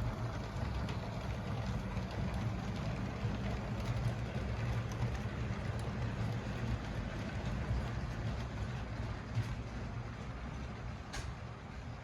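LEGO train running on plastic track: a steady low hum and rumble from its electric motor and rolling wheels, with light clicks scattered through it and one sharper click near the end.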